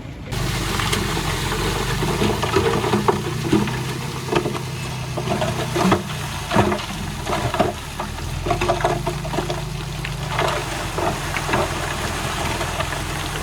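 Diesel engine of heavy earthmoving machinery running steadily, with frequent irregular clanks and rattles of metal and stone over it.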